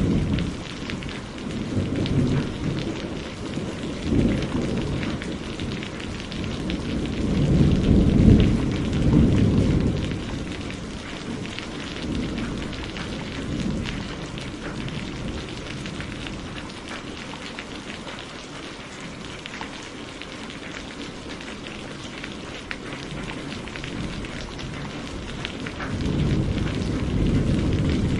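Heavy rain falling steadily, with rolling thunder rumbling in low swells, loudest about eight seconds in and building again near the end.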